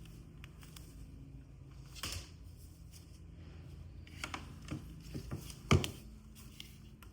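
Handling sounds of unboxing: a brief rustle about two seconds in, then a run of light clicks and taps, and one sharper knock, the loudest sound, just before the end, over a low steady hum.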